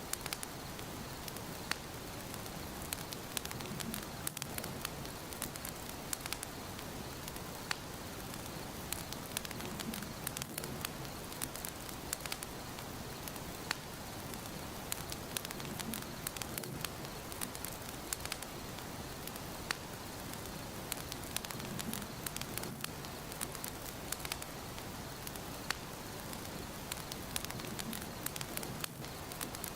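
Wood fire in a fireplace crackling steadily: a soft hiss dotted with frequent sharp pops and snaps, with a faint low swell about every six seconds.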